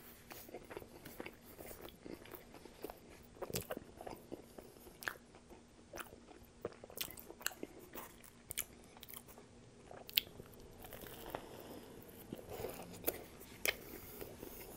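Close-miked chewing and biting into a toasted Subway steak and cheese sub, with many short crunches and wet mouth clicks.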